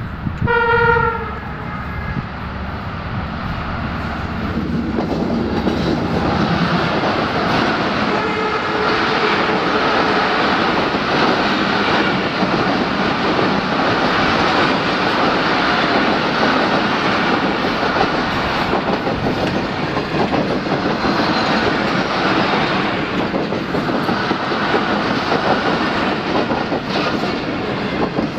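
A diesel locomotive's horn gives one short blast near the start. The locomotive and a long train of passenger coaches then pass close by, loud and steady, with wheels clattering over the rail joints.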